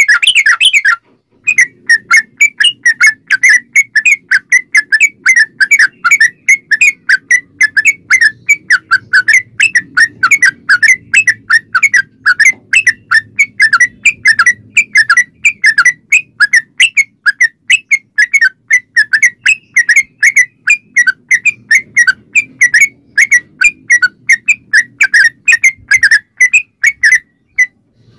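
Yellow-vented bulbul (trucukan) singing a long, fast run of short whistled notes, about four or five a second, with a brief pause about a second in.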